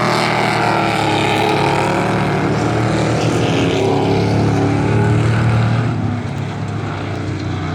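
Several dirt-track race trucks' engines running hard around the oval, their pitch rising and falling as they go through the turns.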